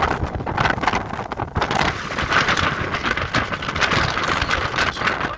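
Strong wind buffeting the microphone, a gusting rush with a heavy low rumble.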